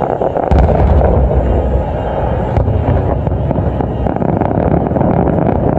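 Aerial firework shells bursting, a heavy boom about half a second in and a continuous rumble of further booms with sharp crackling and popping over it.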